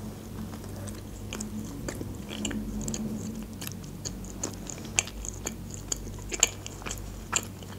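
Close-up eating sounds of a person biting into a croissant sandwich and chewing it with the mouth closed: soft crackles and wet mouth clicks, a few louder clicks in the second half.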